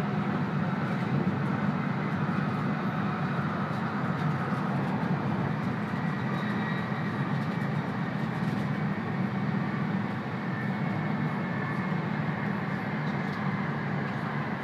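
Inside the passenger cabin of an E2 series Shinkansen running along the line: a steady low rumble with a few faint high tones over it.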